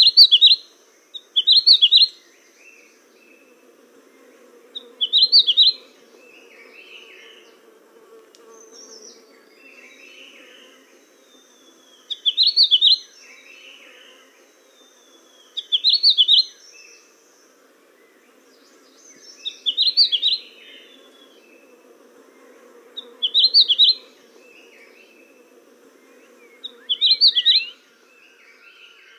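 Songbird repeating a short, buzzy, high-pitched trill eight times, a few seconds apart, with softer chirps between and a faint low hum beneath.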